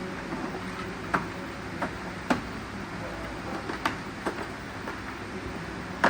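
Irregular sharp clicks and knocks of hand tools on engine parts during the rebuild, roughly one every second or so, over a steady low hum.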